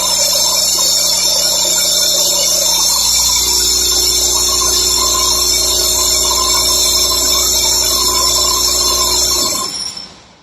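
Two-stroke petrol engine on a lab test bed running steadily under load with a high, whining note. Its lower note shifts about three seconds in, and near the end it cuts out and dies away over about a second as the load reaches 100%, beyond what the engine can carry.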